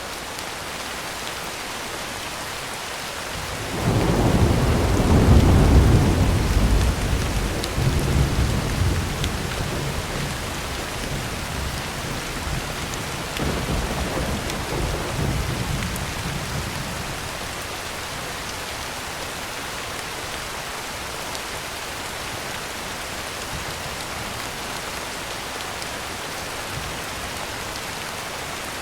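Heavy rain falling steadily on a tin roof, with a roll of thunder that breaks suddenly about four seconds in, rumbles deep and loud for several seconds, swells once more briefly around the middle, and fades back under the rain.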